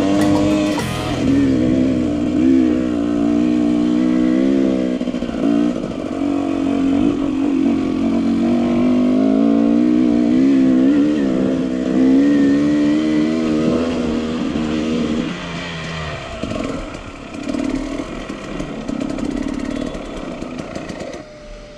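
Husqvarna TE250 enduro motorcycle engine running under way, its pitch rising and falling as the throttle is worked. About fifteen seconds in it eases off and runs quieter and less steadily.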